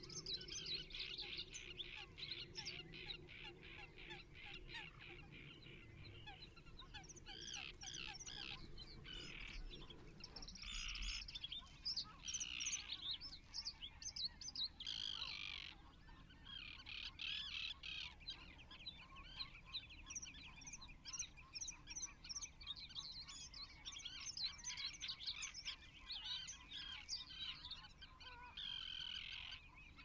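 Birds calling: a dense run of repeated high chirps and whistled calls, with a few short pauses.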